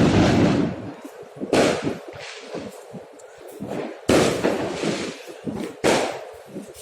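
Fireworks going off: four loud bangs, at the start, about a second and a half in, about four seconds in and near the end, each fading away over a second or so, with scattered smaller pops between.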